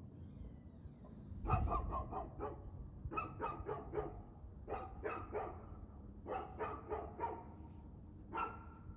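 A dog barking repeatedly, in runs of three to five quick barks a second or so apart, with a single bark near the end.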